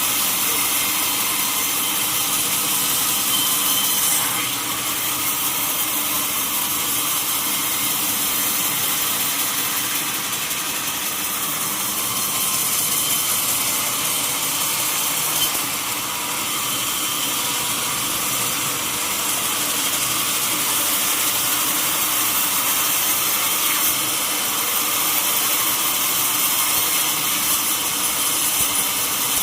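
Sawmill saw running steadily as it cuts lengthwise through a mahogany log, a loud continuous hissing whine of the blade in the wood.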